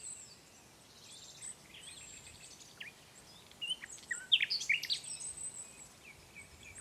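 Several small birds chirping and singing, with short high notes and quick downward-sweeping calls, busiest in the middle of the stretch, and a thin rapid trill near the end.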